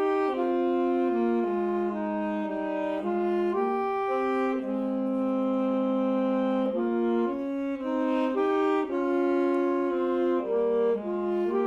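Wind band playing a slow, legato passage of held notes in several-part harmony, with saxophones prominent.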